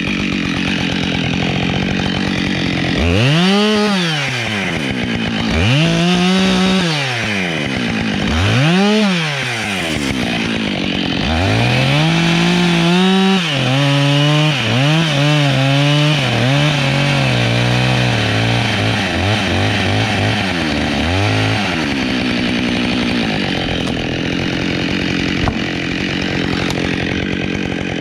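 Husqvarna 572XP two-stroke chainsaw idling, blipped up and down three times, then held at high revs for about ten seconds with the pitch sagging and wavering as the chain bogs into the wood, before dropping back to idle.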